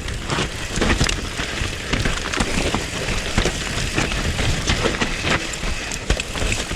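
Bird Aether 7 mountain bike descending a rough, wet trail: tyre noise with a constant clatter of short knocks and rattles from the bike over the ground, and a low rumble underneath.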